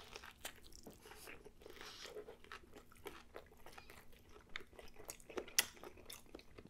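Close-up eating sounds of a person chewing a mouthful of a messy breakfast burger on a toasted everything bagel: soft, scattered crunches and wet mouth clicks, with a couple of sharper ones near the end.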